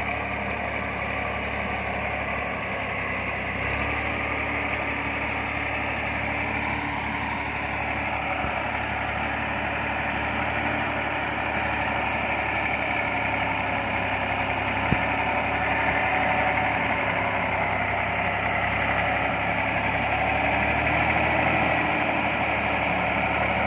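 Tractor engine running steadily, getting slightly louder toward the end, with a single sharp click about fifteen seconds in.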